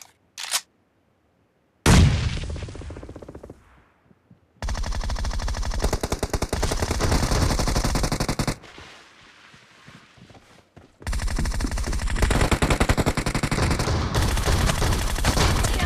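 Video-game automatic gunfire. A single loud shot about two seconds in fades out slowly, then come two long bursts of rapid fire, about four seconds each, with a lull between them.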